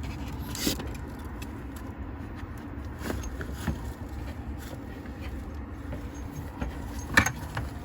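Steady low background rumble with a few light clicks and one sharper click near the end, from the tankless water heater's service valves and hose fittings being handled and turned.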